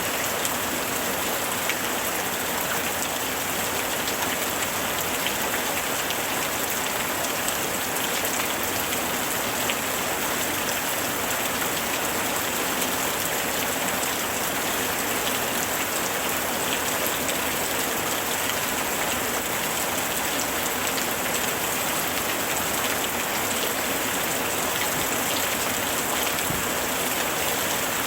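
Steady summer rain falling on a surface, an even hiss dotted with many small drop impacts.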